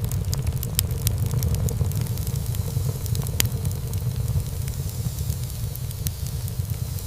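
Wood fire burning in a fireplace: a steady low rumble of flames with frequent sharp crackles and pops, one louder pop about three seconds in.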